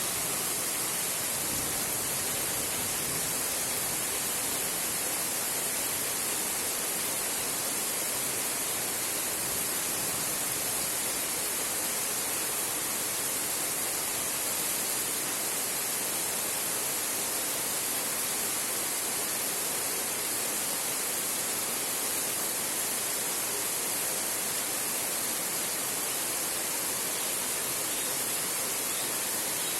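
Heavy rain falling on a tin roof: a steady, even hiss with no break and no thunder clap.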